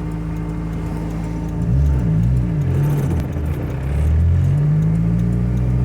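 Honda S2000 four-cylinder engine in a Suzuki Samurai idling steadily, then revved in a few quick blips up and down about two seconds in, before the revs rise again and hold higher near the end.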